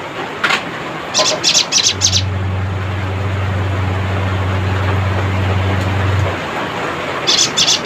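Cinereous tit (gelatik batu) giving its rapid churring chatter: a single sharp note, then a quick run of about six harsh high notes about a second in, and another short run near the end. A steady low hum sounds underneath through the middle.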